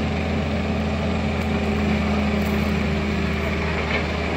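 Heavy-machinery diesel engine running steadily at an even speed.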